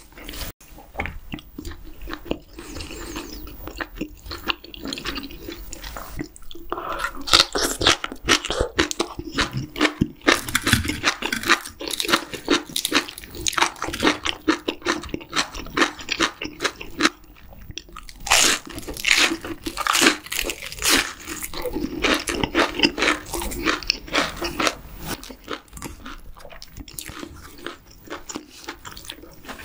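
Close-miked eating: loud crunching as a large breaded fried shrimp is bitten and chewed, mixed with chewing. The crunching comes in two long runs with a short pause between.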